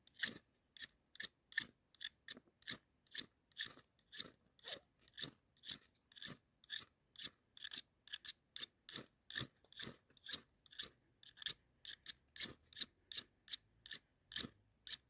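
Fire striker scraped hard and fast, about three strokes a second, throwing sparks to light a campfire; the strokes keep going as the tinder is slow to catch.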